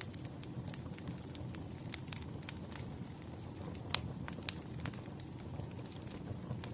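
Burning firewood crackling: many sharp pops and snaps over a steady low rumble of flames, with one louder pop about four seconds in.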